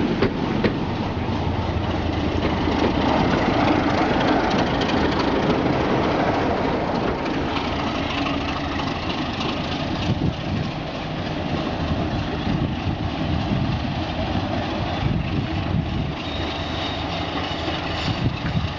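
A diesel-hauled train running on the rails: a steady engine rumble mixed with wheel and rail noise, easing off slightly over the seconds.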